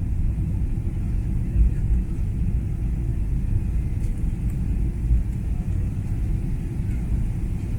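Steady low rumble inside an airliner cabin, the engines and the aircraft's motion filling the cabin, with no distinct events.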